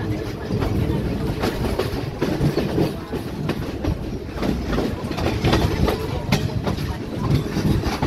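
Train running slowly on the rails: a steady low rumble with irregular metallic clacks as the wheels pass over rail joints and points, heard from aboard.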